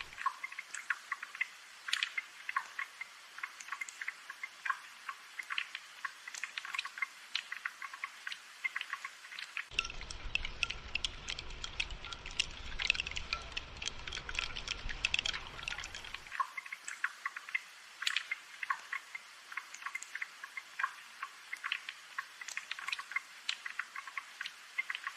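Rain dripping and pattering in many quick, irregular drops. A low rumble runs underneath through the middle stretch.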